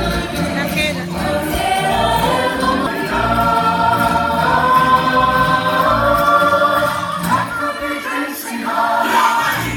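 Group of voices singing a Polynesian song in harmony, holding long notes over a steady low beat. The beat drops out about eight seconds in.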